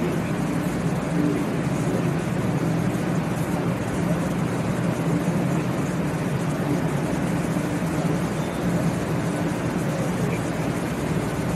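A 500 Series Shinkansen train standing at the platform, its onboard equipment giving off a steady low hum over the noise of the station.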